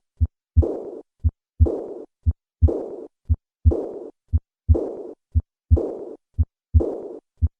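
Heart sounds of severe aortic regurgitation at about one beat a second. Each beat is a short first heart sound, then the second heart sound followed by a blowing diastolic murmur that fades away (decrescendo).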